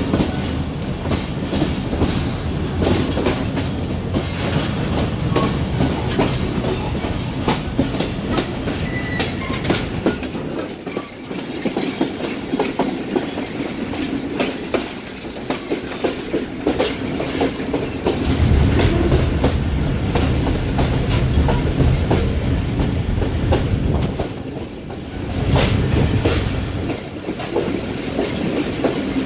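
Jaffar Express passenger train running on the line, heard from inside a coach: a steady rumble with the clickety-clack of wheels over rail joints. The low rumble fades briefly about a third of the way in and swells loudest in the last third.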